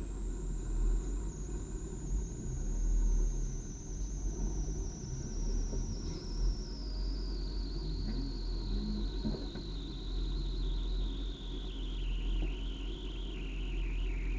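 BMW club race car's engine idling, heard from inside the car as a steady low rumble. Over it runs a thin high-pitched whine that falls slowly and steadily in pitch across the whole stretch.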